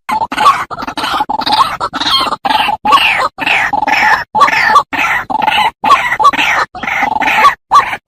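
White-breasted waterhen (ruak-ruak) calling: a dense, fast run of harsh repeated croaking calls, about three a second.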